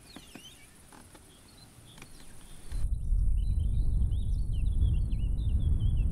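Faint bird chirps, then about three seconds in a loud low rumble sets in suddenly, with a bird singing a fast warbling song over it.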